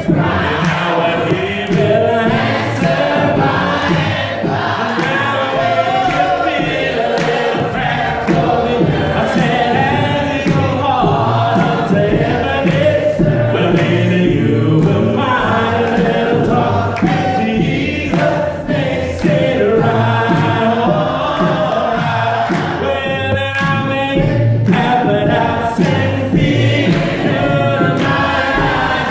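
Choir singing a gospel song, loud and steady, over a pulsing low accompaniment.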